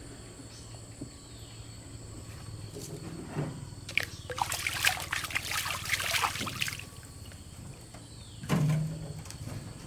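Water splashing and sloshing for about three seconds, then a single dull knock near the end.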